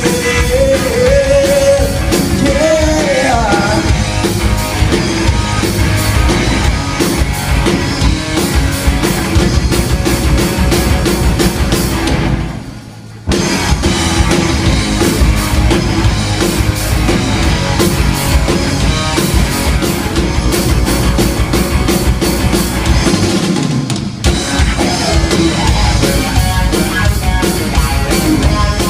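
Rock band playing live: drum kit and electric guitar in an instrumental passage. About twelve seconds in the band stops for roughly a second, then comes back in.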